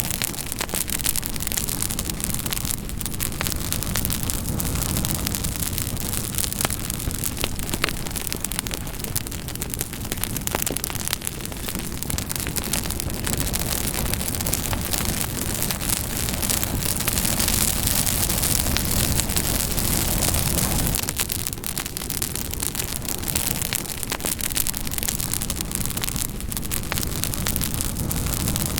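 Campfire burning, with dense crackling and popping over a steady hiss. The hiss swells for a few seconds past the middle, then settles back.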